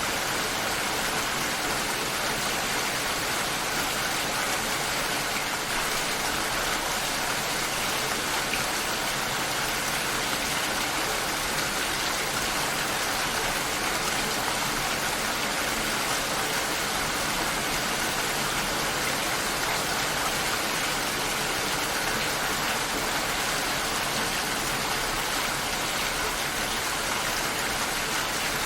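Steady rain shower falling, an even hiss of rain on surfaces with no changes or separate events.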